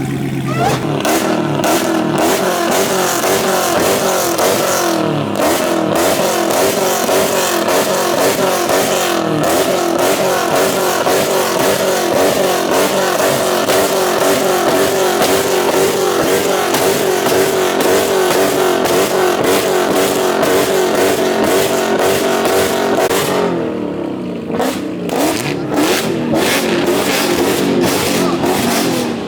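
Car engines revving hard, the exhaust note rising and falling over and over, with a brief drop about 24 seconds in before the revving picks up again.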